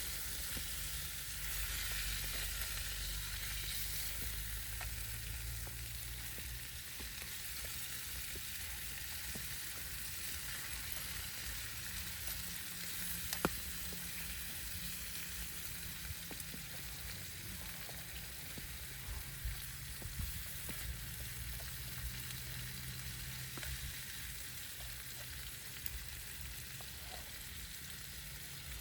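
Food frying in a pan: a steady sizzle with scattered small pops and ticks, one sharper pop about halfway through.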